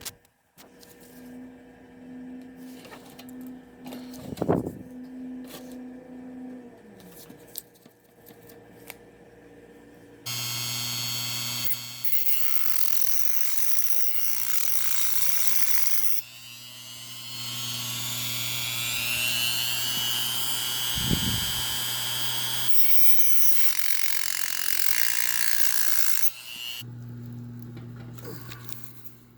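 A few light clicks and handling knocks, then a handheld power tool runs for about sixteen seconds with a steady hum and a wavering high whine. It eases off for a moment partway through, then stops near the end.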